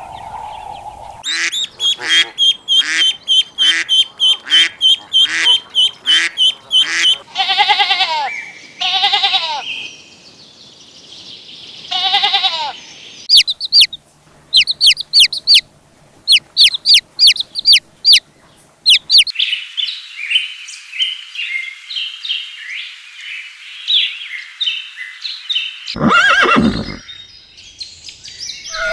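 A string of different animal calls, one after another. In the middle, a newly hatched chick peeps in short, sharp chirps for about five seconds.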